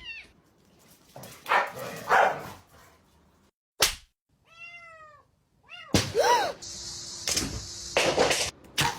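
A cat meowing: a quick run of short meows about halfway through, then one longer rising-and-falling meow. Before them come two short noisy bursts and a sharp click, and after them a steady noisy stretch with a few knocks.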